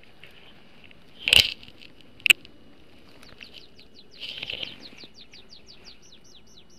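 A small bird singing a fast trill of short, falling high notes, about five a second, starting about three seconds in. Before the song there is a loud rustling knock about a second and a half in and a sharp click a second later.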